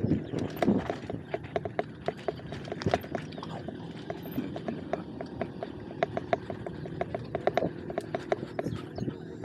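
Mountain bike on a rough trail: a quick, uneven run of clicks and knocks, several a second, over a steady low rumble.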